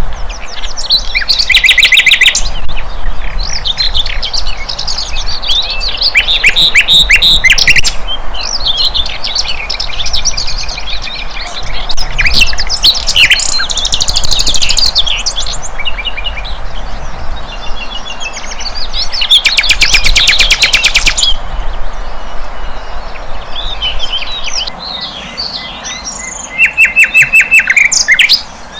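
A sikatan londo (flycatcher) singing a fast, varied stream of high chirps and whistles. Four loud, rapid trills of about one to two seconds break in: near the start, about a quarter of the way in, in the middle and near the end.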